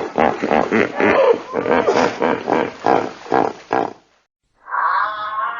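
An animal calling: a rapid series of short, pitched calls, about three a second, then after a brief gap one long, drawn-out steady call begins near the end.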